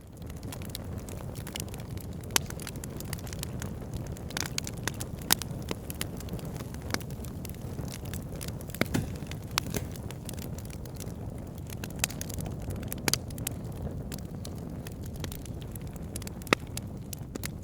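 Wood fire burning in a fireplace: a steady low rumble of flames with irregular crackling and a few sharper, louder pops of the wood.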